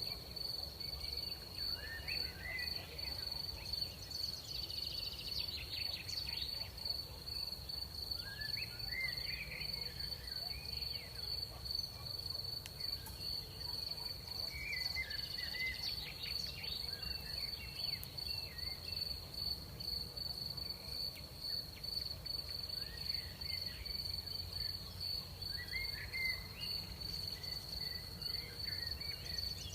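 Crickets trilling in one continuous high, steady note, with short chirping calls breaking in now and then, over a low steady background hum.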